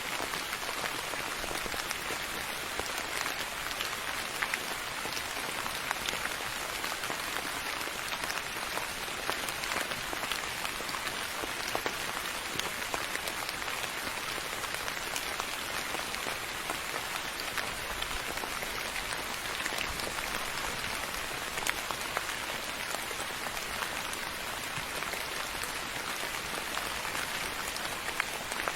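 Steady rain falling and pattering on a surface, a dense even hiss scattered with individual drop ticks.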